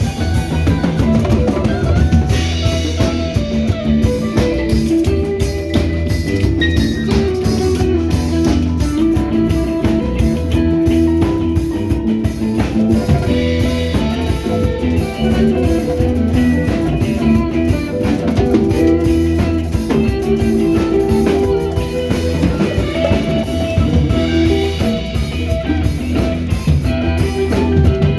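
Band playing an instrumental jam: guitar lines over a drum kit, with no singing.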